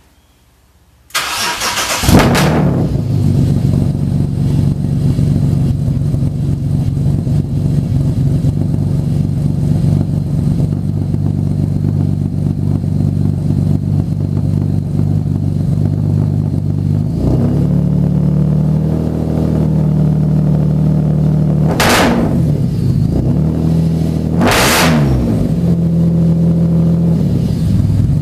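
Car engine cranking and catching about a second in, then settling into a steady idle through a new dual 2.5-inch stainless exhaust with catalytic converters and resonators but no mufflers. Later, two quick throttle blips a few seconds apart rev the engine up and back down to idle.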